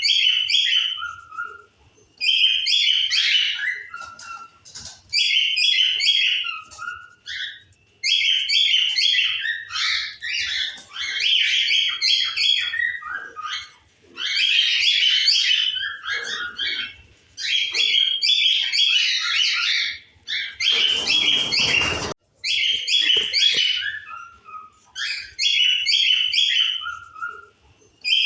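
Cockatiels chirping and calling in repeated bursts of a second or two with short pauses between them. A brief burst of rushing noise cuts in about 21 seconds in.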